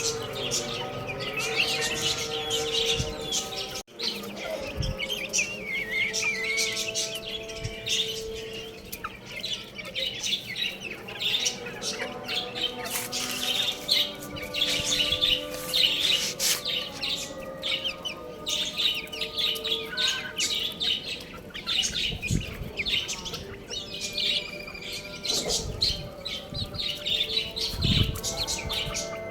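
A flock of baby chicks peeping continuously, many high chirps overlapping, with a brief dropout about four seconds in.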